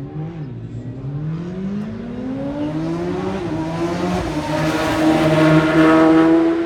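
Racing motorcycle engine accelerating hard, its pitch climbing with a brief break for a gear change partway through, and getting louder as the bike approaches.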